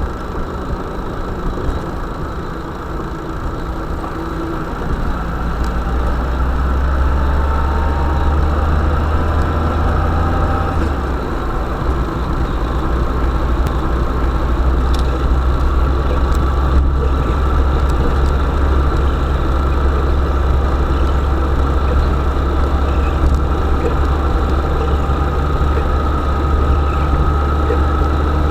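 Motor vehicle engine running with a steady low drone, which grows louder about five seconds in and then holds.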